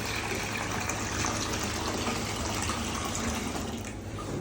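Tap water running steadily into a bathtub as it fills, a leak test of the drain and plumbing.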